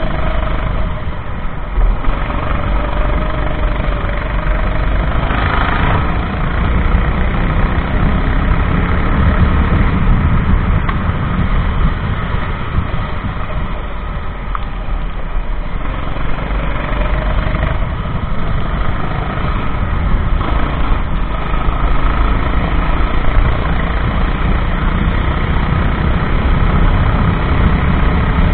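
Racing kart engine heard onboard while lapping, its pitch rising and falling again and again with the revs, under a heavy rumble of wind on the microphone.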